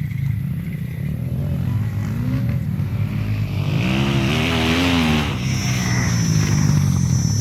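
Motocross bike engines running, with one bike revving up and down and passing close about four seconds in; a steady high whine joins just after.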